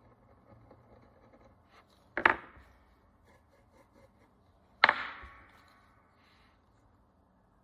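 Two sharp knocks on a hard work surface, about two and a half seconds apart, each trailing off in a brief ring, with faint small ticks of fine tool work before them.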